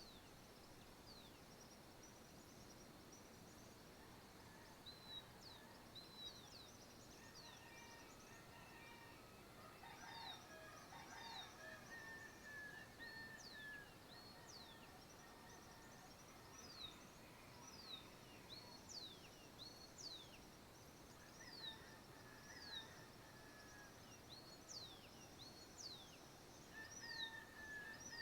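Faint dawn chorus of birds, many of them repeating short, high chirps that sweep downward, with a few longer, lower whistled calls now and then, over a steady soft hiss.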